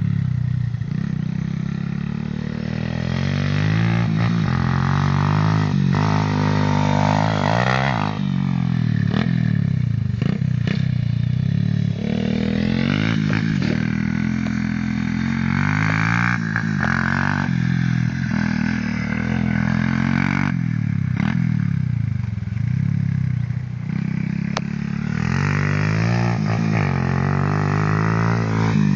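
Motorcycle engines revving up and down repeatedly, their pitch rising and falling every second or two as the bikes are ridden off-road.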